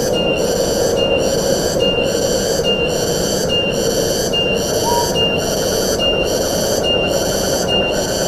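Steady wind through forest, with a high-pitched pulsing call repeating about every 0.7 seconds, and one short higher note about five seconds in.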